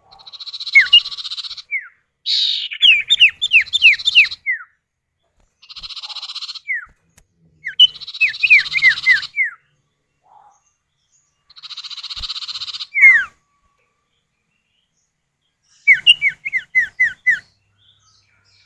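Common iora (sirtu/cipoh) calls played as a lure, male and female answering each other. Harsh buzzy rasps about a second long alternate with quick runs of four to six down-slurred whistled notes, with a few seconds' pause around the middle and a final run of whistles near the end.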